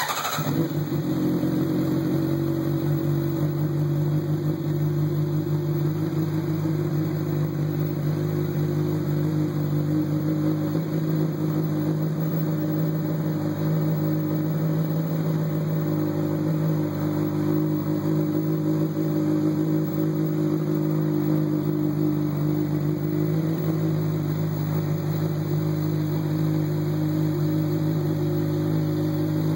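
2012 Honda CBR600RR inline-four engine breathing through a Hyperflo exhaust with its sound-reducing cores (baffles) fitted, coming in suddenly as it fires up and then idling steadily. With the cores in, the exhaust is still loud but more tolerable and less loud than without them.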